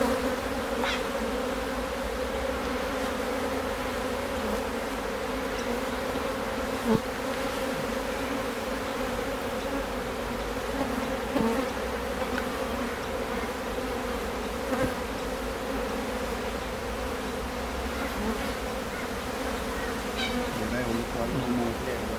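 Honeybees buzzing steadily around an opened hive, a dense, even hum, with a few light knocks now and then.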